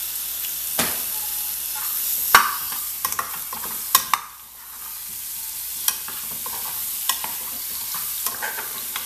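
Oil sizzling around pequi fruit frying in a metal pot as garlic and salt are added, with a metal spoon clinking and scraping against the pot about seven times. The sizzle drops briefly around the middle, then builds again.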